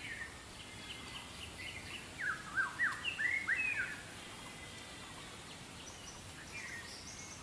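Wild forest birds calling: a quick run of short chirps that sweep downward in pitch for about two seconds, starting a couple of seconds in, with a few fainter calls near the end over quiet natural ambience.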